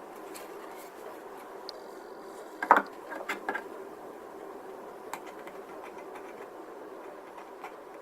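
Faint scraping of a scriber drawn slowly and lightly along the plastic of a model aircraft kit, engraving panel lines. A sharp clack about a third of the way in, followed by a few lighter clicks.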